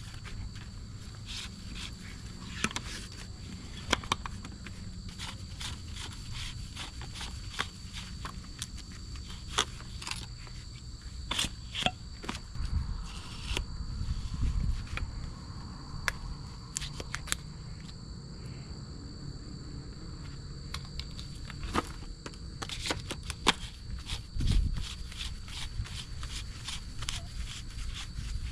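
Irregular light clicks and knocks with footsteps, over a steady high drone of insects.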